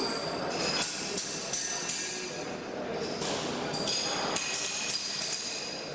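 Metal being struck in a welding workshop: sharp metallic clinks and taps, several a second, each leaving a bright ringing tone.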